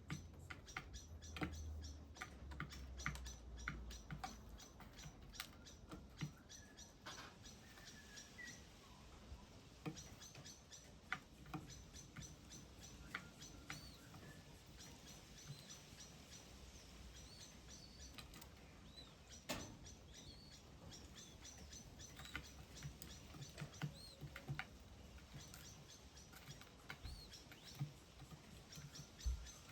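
Faint chirps and short high calls of small birds, over frequent light clicks and taps.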